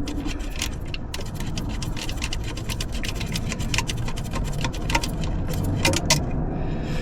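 A ratchet clicking in a fast, uneven run as a screw is backed out of the thermostat housing, over a steady low hum.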